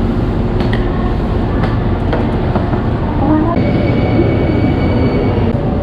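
Train running with a steady low rumble and a few sharp clicks. A steady high-pitched tone sounds from about three and a half seconds in until just before the end.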